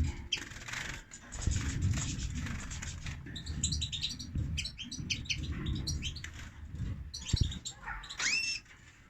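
Caged goldfinches chirping: a quick run of short high chirps in the middle and a single rising call near the end, over a low rumble.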